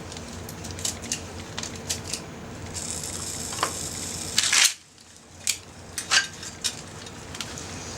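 Scattered sharp clicks and taps of metal utensils and wood being handled around a small campfire grill. There is a hiss about three seconds in that ends in a loud brief crunch near the middle.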